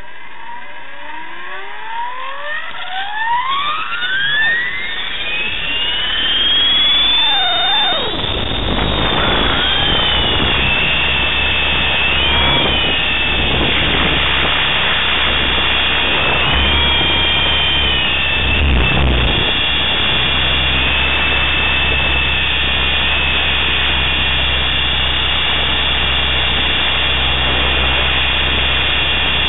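T-Rex 500 electric RC helicopter spooling up. A motor-and-gear whine rises in pitch over the first seven seconds or so, then holds steady at flying speed over a low, steady rotor hum and a rush of air noise.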